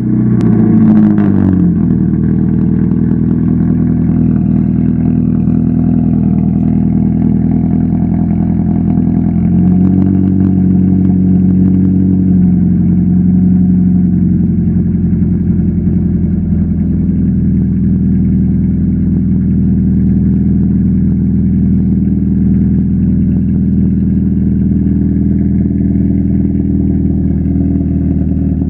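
A 2007 Subaru Legacy's 2.5-litre flat-four running through dual straight pipes with no mufflers. It flares just after starting and settles within the first couple of seconds, then idles steadily and loudly.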